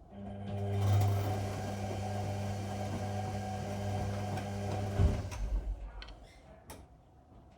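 Whirlpool washing machine running a wash cycle: a steady electrical hum with a rushing noise starts suddenly and cuts off about five seconds later with a clunk, followed by a few light knocks and rattles that die away.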